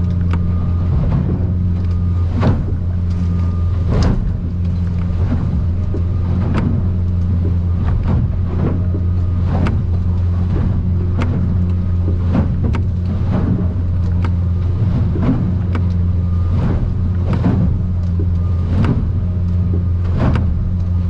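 Boat's outboard engine running steadily under way, a constant low drone heard from inside the cabin of an aluminium boat. Over it come frequent short, sharp knocks and slaps, about one or two a second, as the hull pounds through rough water.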